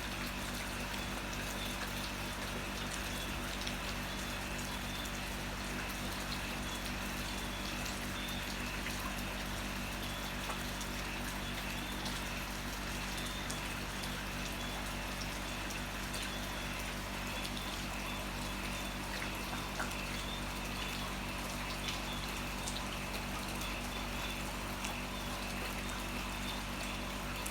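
Heavy rain falling steadily, with water running and scattered drips, over a steady low hum.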